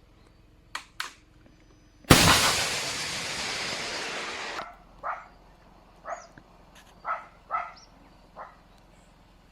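Two faint clicks, then a sudden loud blast with a rushing roar for about two and a half seconds that cuts off sharply. After it, a dog barks about five times.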